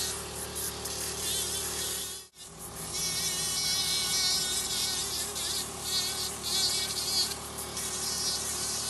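Podology nail drill running at high speed, grinding down a thickened nail plate with a steady whine. The sound cuts out briefly about two seconds in.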